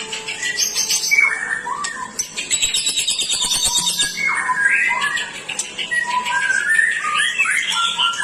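White-rumped shama (murai batu) singing continuously in an aggressive, fighting style: fast rattling trills give way about halfway through to loud whistled slurs that glide up and down, mixed with harsh notes.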